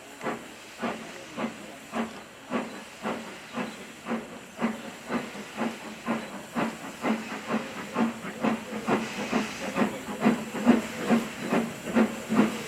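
Steam locomotive exhaust chuffing, the beats quickening from about two to about three a second and growing louder as the engine pulls away.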